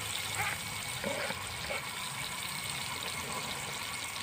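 Garlic, ginger and chili sizzling steadily in melted margarine in a hot pan.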